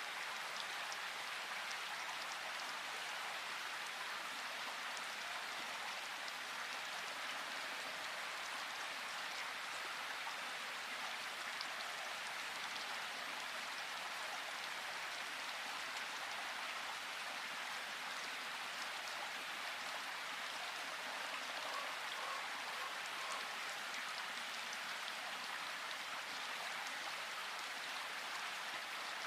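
Steady rain falling in a forest: an even hiss with the patter of many separate drops.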